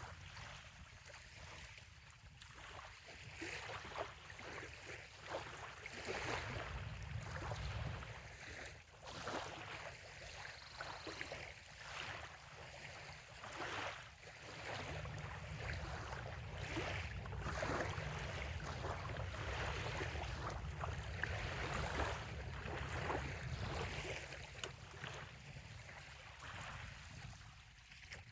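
Small waves lapping and splashing irregularly against a sandy bay shoreline, with a low rumble beneath that swells about six seconds in and again from about fifteen seconds.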